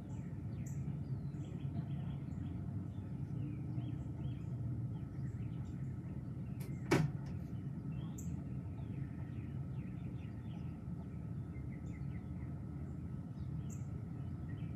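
Songbirds chirping in the trees over a steady low rumble, with one sharp click about seven seconds in.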